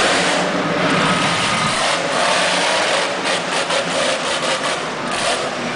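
Monster truck engine running with a loud, continuous noise.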